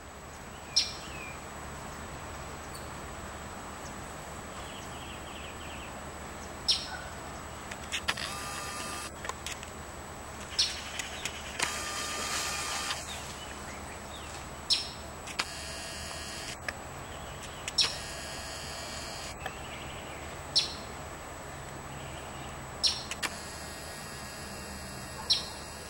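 Short, sharp bird chirps, about eight of them, spaced two to four seconds apart, each a quick falling note, over a steady outdoor background hiss. A few longer, buzzier calls of about a second each come in the middle stretch.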